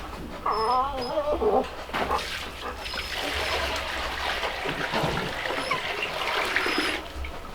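A piglet gives a short, wavering squeal about half a second in, followed by several seconds of rustling noise.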